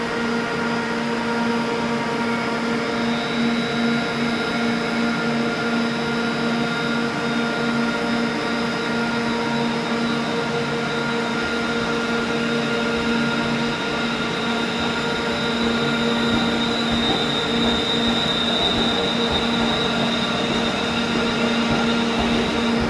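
Steady drone of a standing Class 350 electric multiple unit and the station's diesel-fume extraction blowers, with several steady whining tones. A high whine grows stronger from a few seconds in.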